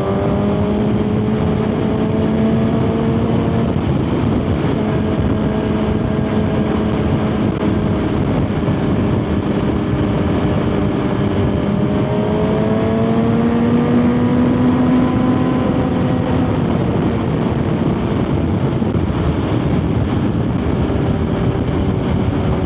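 Suzuki GSX-R1000 inline-four engine running at a steady cruise under heavy wind rush. Its pitch swells slightly twice as the throttle is eased on and off.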